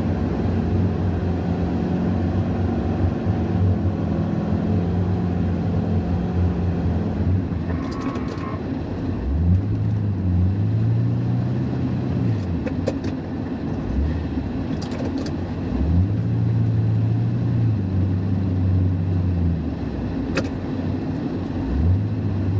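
Ford F-350's 5.4-litre V8 engine running steadily, then revving up and easing back down three times in long, even swells. A few brief sharp clicks fall between the revs.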